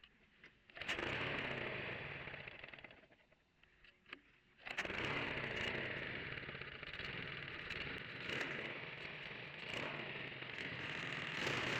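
Small gasoline engine running roughly. It catches about a second in and dies away over about two seconds, then starts again near five seconds in and keeps running unevenly, typical of the idle problem being chased.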